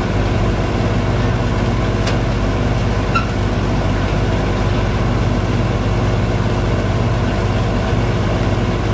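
The engine driving a sand-pumping boat's pump runs steadily while sand is pumped aboard, with a faint click about two seconds in.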